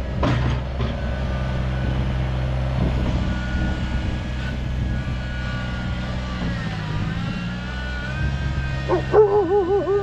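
Kubota BX compact tractor's small diesel engine running steadily, with a higher whine that rises and falls. Near the end a German Shepherd breaks in with a quick run of loud barks.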